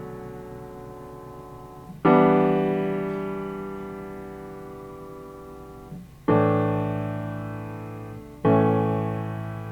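Piano chords played slowly, each struck and left to ring out and fade; one is dying away as the sound begins, and new chords come about two seconds in, after six seconds and after eight and a half seconds.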